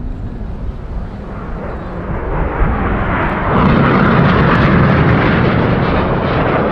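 Red Arrows' BAE Hawk jets flying a formation manoeuvre, their engines heard as a jet roar that swells about two seconds in and stays loud and steady from the middle on.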